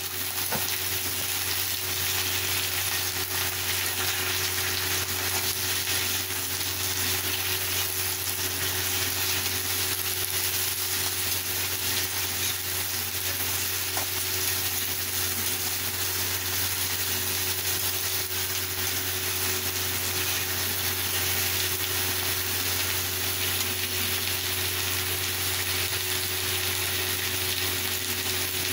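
Chopped flat beans (avarakkai) sizzling steadily in oil in a steel pan as they are stirred and turned with a metal spatula, with a few faint scrapes and taps of the spatula.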